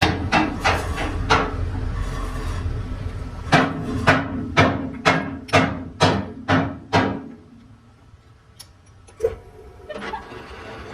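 Repeated hammer blows, a quick cluster at first and then a run of about two strikes a second, over a low rumble. The rumble and the blows stop together, leaving a few lighter knocks.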